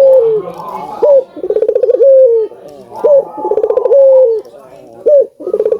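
Albino ringneck dove (burung puter) cooing repeatedly: each call is a short rising note, a fast rolling trill, then a long falling coo, about once every two seconds, three times.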